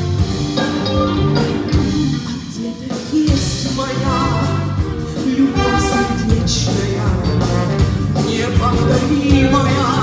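A woman singing a song with a brass band accompanying her.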